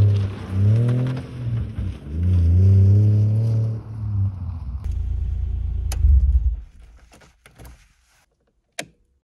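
Car engine revving hard in repeated rising and falling pulls as the car drifts with its rear wheels spinning, then settling to a lower steady drone that fades away as the car drives off. A few faint clicks follow near the end.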